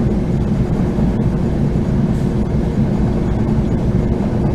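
Train in motion: a steady low rumble with a faint constant hum over it.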